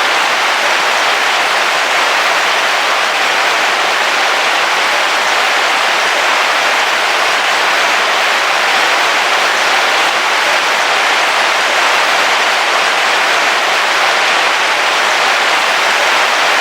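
Heavy rain falling on a camping car's roof, heard from inside: a loud, steady, even hiss of rain with no separate drops or thunder standing out.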